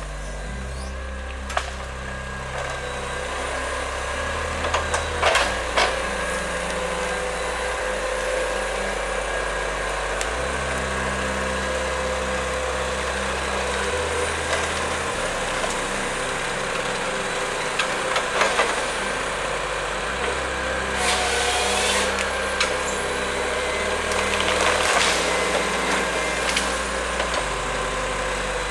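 Heavy machinery engine running steadily, with a few sharp knocks and cracks, about five seconds in and again in the second half.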